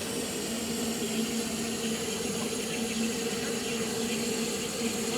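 Ffestiniog Railway Double Fairlie steam locomotive standing with steam up, hissing steadily over a steady low hum.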